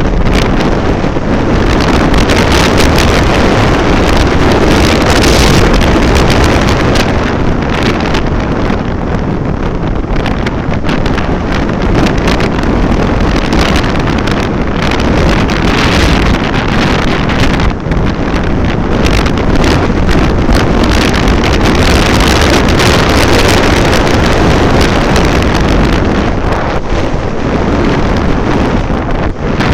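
Loud, steady wind rushing over the microphone of a moving vehicle, mixed with road and engine noise.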